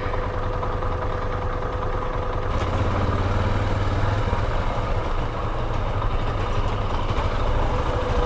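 Vehicle engine idling steadily with a low hum while stopped in traffic.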